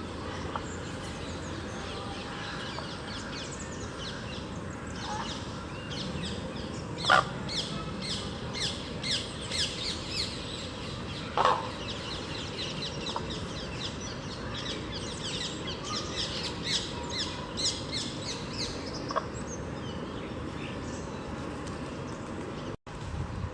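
Birds calling: a long, rapid run of short high chirps, broken twice by a louder, sharper call, over steady background noise.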